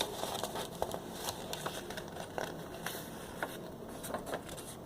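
Sheet of paper being handled and folded, giving faint rustling and small scattered crinkling clicks.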